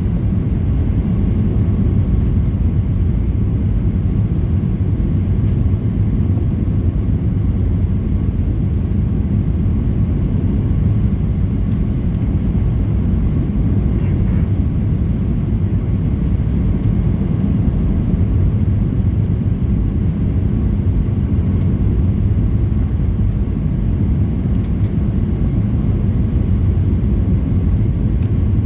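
Cabin noise of a Boeing 737-800 in flight on approach: the steady low rumble of its engines and the airflow, with a faint constant hum above it.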